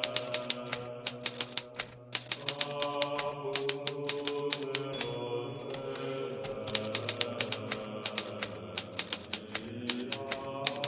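Hermes Baby portable typewriter being typed on: rapid runs of key strikes, with a short lull about halfway. A soft, sustained droning music bed plays underneath.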